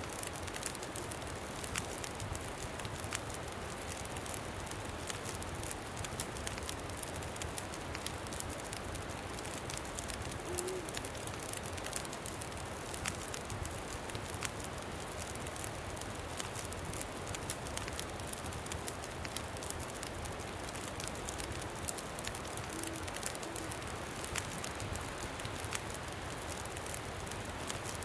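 Campfire crackling with frequent small sharp pops over a steady rush of wind.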